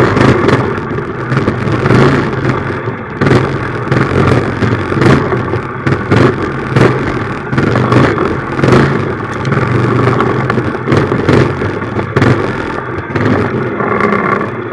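Minibike engine running under way, its level rising and falling every second or two as the throttle is worked, with many short sharp knocks and rattles throughout.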